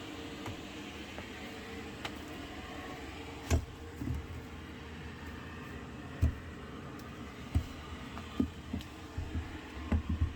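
A steady machine hum with irregular dull knocks and thumps on top. The knocks start about three seconds in and come more often near the end.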